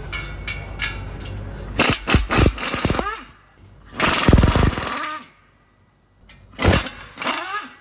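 Impact wrench hammering in three short bursts as it breaks loose and spins off the 15 mm flange bolts joining the exhaust intermediate pipe to the DPF.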